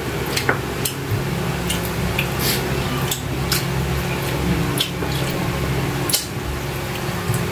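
Wet chewing, lip smacks and the tearing of grilled chicken eaten by hand, a string of short irregular clicks over a steady low background hum.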